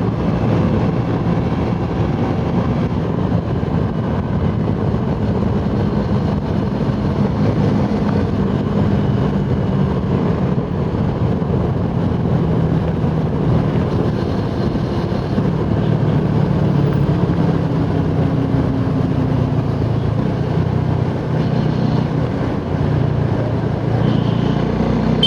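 Suzuki Gixxer SF 250's single-cylinder engine running steadily at speed on the road, its pitch holding nearly level, over a constant rush of wind and road noise.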